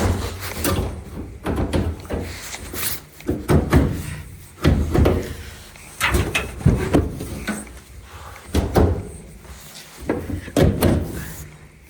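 Dryer's sheet-metal bulkhead panel and drum knocking and clunking as they are handled and seated in the cabinet during reassembly: a string of thumps, some in quick pairs.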